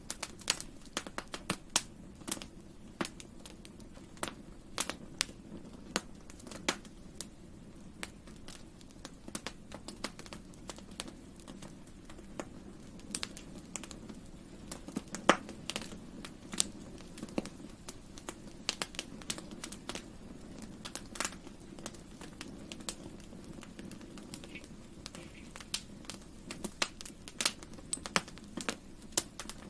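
Wood campfire crackling: many irregular sharp pops and snaps over a steady low rumble of the burning fire, with one louder pop about halfway through.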